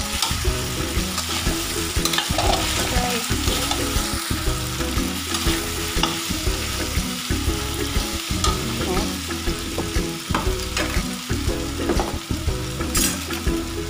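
Diced potatoes and carrots sizzling as they fry in a steel wok, stirred with a metal spatula that scrapes and clicks against the pan now and then.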